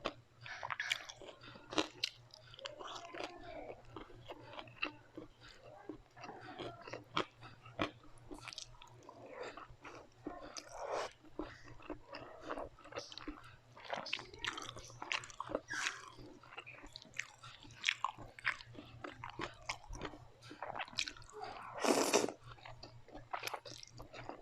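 Close-miked eating: a person biting and chewing crunchy food in dense, irregular crunches, with one louder burst about 22 seconds in. A faint steady low hum runs underneath.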